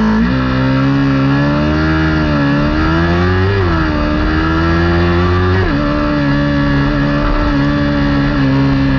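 Kawasaki Ninja 400 parallel-twin engine at race pace, its pitch climbing through the revs and dropping sharply at two upshifts around the middle, then running fairly steady at high revs.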